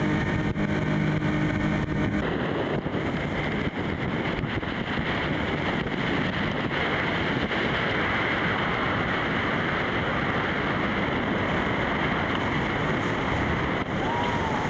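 Steady roar of rushing water with wind buffeting the microphone. A held set of steady tones underneath stops suddenly about two seconds in.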